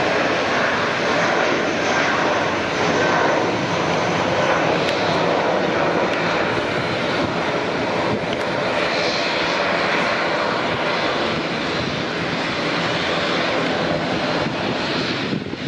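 Airliner engines running loud and steady, a dense even rush of engine noise.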